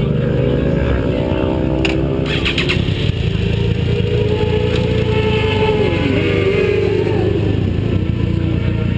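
Vehicle engine running hard on a race track, heard from an onboard camera over a constant rush of wind. Its pitch slides down and back up about six seconds in, and a quick rattle of knocks comes about two seconds in.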